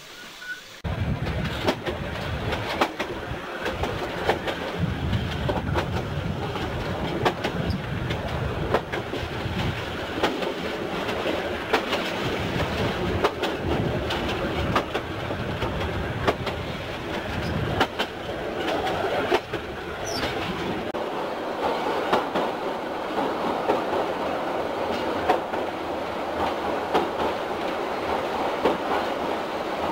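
Steam-hauled metre-gauge train running along the track, heard from inside a coach: wheels clicking over rail joints and the carriage rattling over a steady rumble. The sound starts suddenly about a second in, and the low rumble eases after about twenty seconds.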